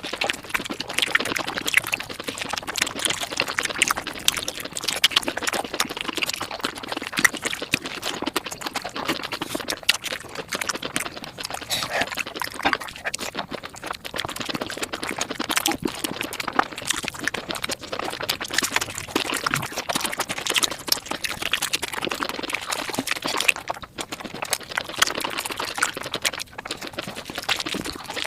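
Close-miked eating sounds played back at five times speed: a dense, fast, unbroken stream of chewing and wet mouth clicks.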